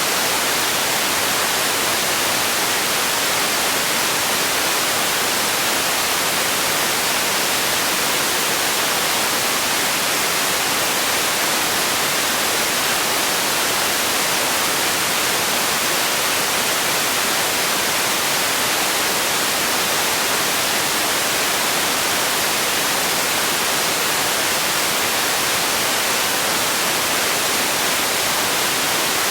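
Steady, unchanging white noise, a hiss that is brightest in the treble and thin in the bass.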